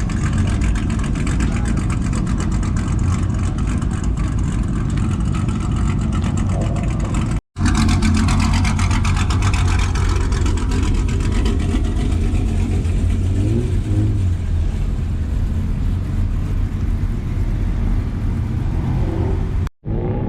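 Car engines running close by, a steady low rumble with brief revving. The sound cuts out completely twice for an instant.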